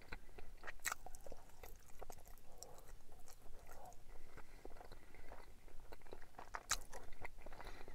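A person chewing food close to the microphone, with scattered small clicks and crunches throughout.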